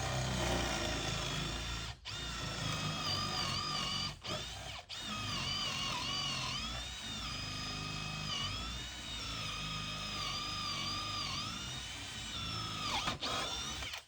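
Electric drill turning a big bit through a hole. The motor whine sags in pitch and recovers again and again as the bit bites, with a few brief stops of the trigger.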